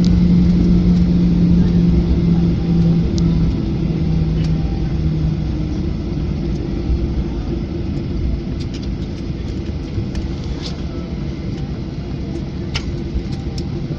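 Airliner cabin noise during the ground roll after landing: a steady low rumble with an engine tone that fades away over the first five seconds as the aircraft slows. A few light clicks and rattles come in the second half.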